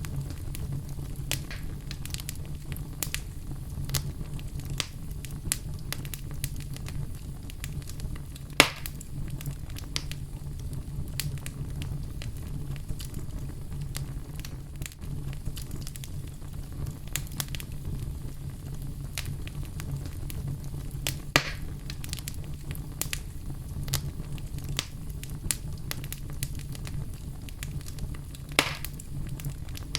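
Wood fire burning in a fireplace: a steady low rumble of flames with constant small crackles, and three louder pops, about 9, 21 and 29 seconds in.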